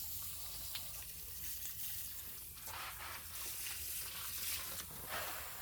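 Shower-head spray hissing steadily as water falls onto potted succulents, swelling briefly about halfway through and again near the end.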